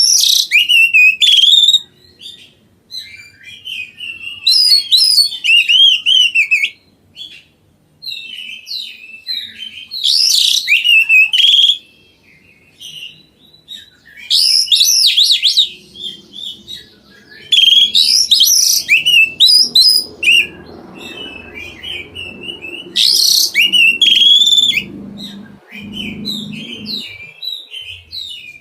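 A songbird singing loud, rapid phrases of whistled and chattering notes. The phrases come in bursts of a second or more, separated by short pauses.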